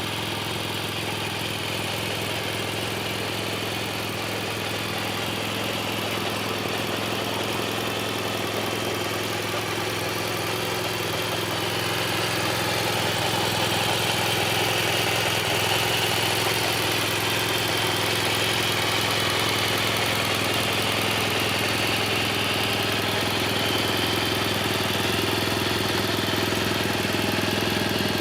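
BMW R1200 GS's liquid-cooled boxer twin idling steadily, getting a little louder about halfway through.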